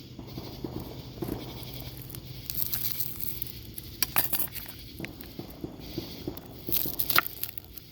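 Aluminium foil crinkling and rustling as it is peeled off a hot potato baked in the coals, with irregular crackles and a couple of sharper crumples about four seconds in and near the end.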